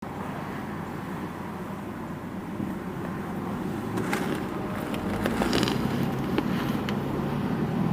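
A car driving, heard from inside the cabin: a steady low road and engine rumble that grows a little louder, with a few sharp clicks in the second half.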